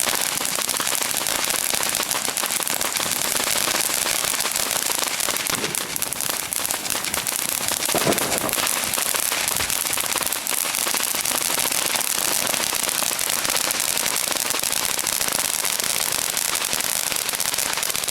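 Firecrackers going off in a dense, continuous crackle of rapid small pops, holding at a steady level.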